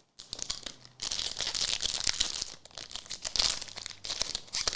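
Plastic trading card pack wrapper crinkling and tearing as it is opened by hand, a dense crackle of small clicks and rustles with a short lull about a second in.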